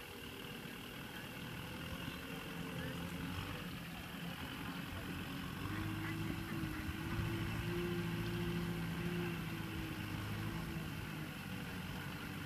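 Kubota M6040SU tractor's diesel engine running steadily as it tows a loaded trailer. Its note rises a little and grows louder about six seconds in, then eases off near the end.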